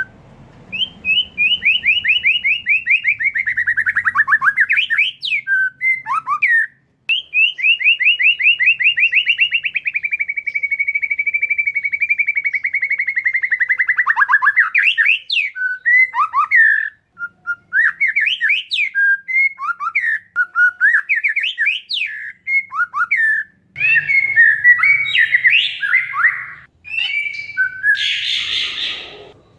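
Oriental magpie-robin (kacer) singing: two long, rapid trills, then a run of varied short whistled notes, and a harsh rattling chatter near the end.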